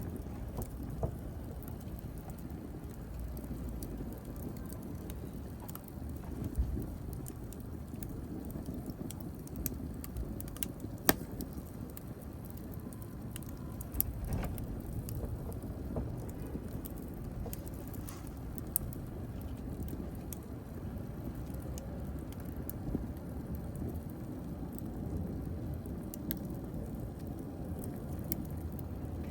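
Wood fire burning in a fireplace: a steady low rumble of flames with irregular sharp crackles and pops, the loudest pop about eleven seconds in.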